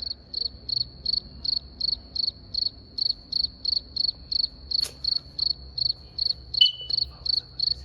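A cricket chirping steadily in a high, even pulse, about three chirps a second, with a single sharp click about five seconds in.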